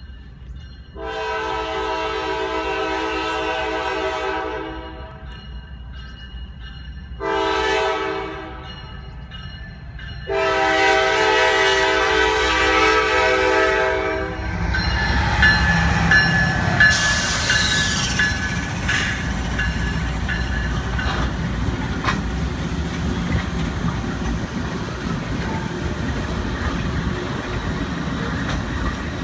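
Norfolk Southern diesel freight locomotives sounding their multi-note air horn for a grade crossing: a long blast, a short one and a second long one. After the horn the lead locomotives pass close by with a heavy engine rumble and clattering wheels, heard from inside a car stopped at the crossing.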